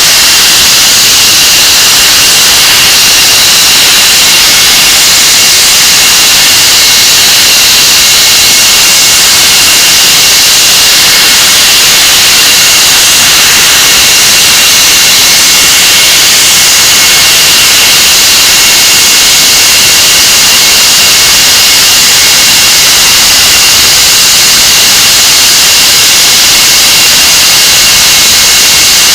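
English Electric Lightning's Rolls-Royce Avon turbojet engines running steadily on a ground run. There is a very loud, even rush of jet noise with several high-pitched whining tones held steady throughout.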